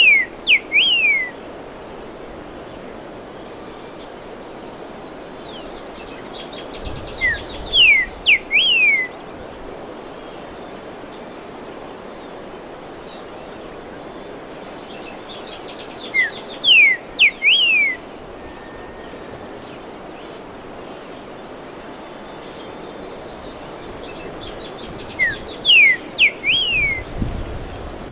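Streaked saltator singing: short phrases of a few clear, downslurred whistles, repeated about every nine seconds, over a steady high-pitched hum in the background.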